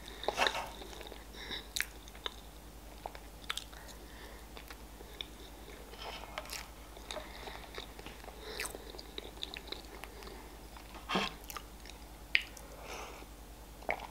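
Close-miked chewing of a mouthful of cheesecake smeared with chocolate spread: soft, wet mouth sounds and scattered small clicks, with a few louder smacks.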